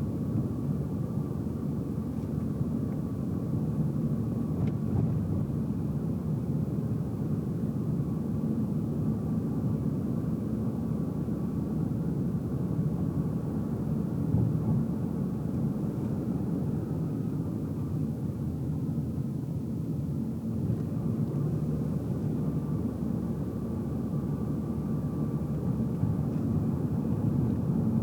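Steady road and engine noise of a car driving, heard from inside the cabin: a continuous low rumble with no sharp events.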